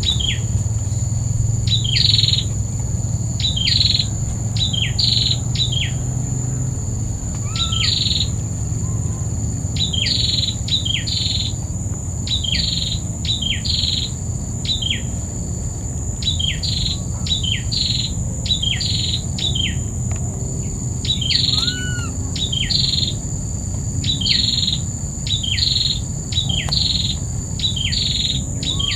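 A bird calling over and over: short high notes that slide steeply downward, given in quick runs of two to four, one run every second or two.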